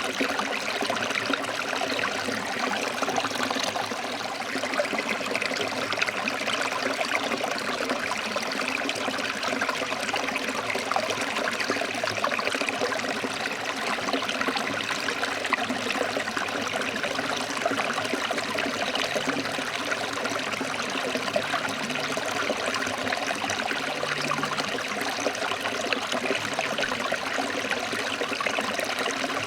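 Forest stream flowing over rocks: a steady, dense rush of water with fine splashing and gurgling.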